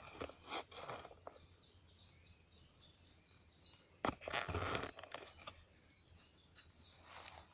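Wood fire crackling, with sharp pops clustered about a second in and again around four to five seconds in. Between them a bird sings a quick run of repeated high falling notes.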